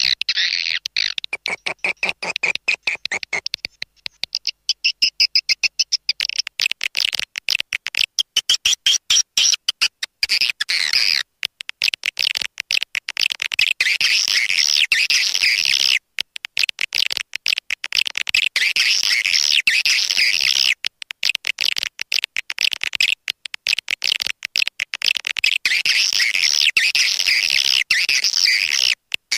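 Recorded swiftlet calls used as a lure: a dense, fast stream of high-pitched chattering twitters and clicks, broken by short gaps a few times.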